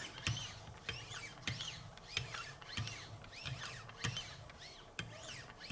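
Wicked Edge sharpening arms with 1.5-micron lapping film stroking along an S90V knife edge. Each stroke gives a short squeak that rises and falls in pitch, several a second, with soft knocks of the arms.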